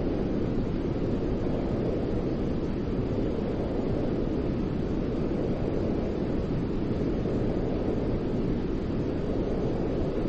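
Steady, deep-toned white noise for soothing a baby to sleep: an even rush, heavier in the low range than in the hiss, with no breaks or pattern.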